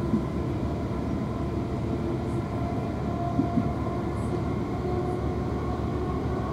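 Steady running rumble of a South Western Railway Class 450 electric multiple unit, heard from inside the passenger carriage. Faint held tones come and go over it, and a couple of light knocks sound about three and a half seconds in.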